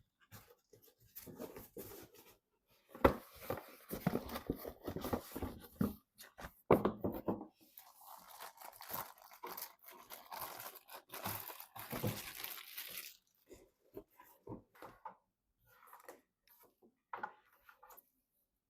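Crinkling and tearing of packaging being handled, in noisy bursts with a longer stretch in the middle, then scattered light clicks and taps near the end.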